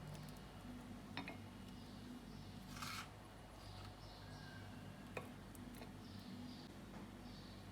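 Quiet handling sounds: two small sharp clicks and a brief rustle, over a steady low hum.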